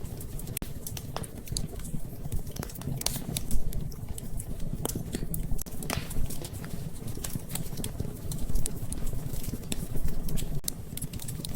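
Wood fire in a fireplace crackling, with irregular sharp pops over a steady low rumble; the loudest pop comes about three and a half seconds in.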